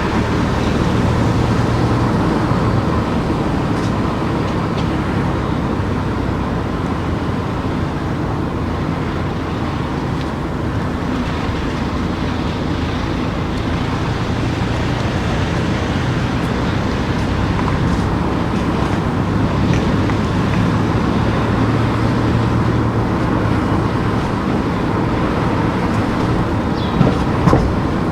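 A car being driven at low town speed: steady engine and tyre noise with a constant low hum. Two short knocks about a second apart near the end.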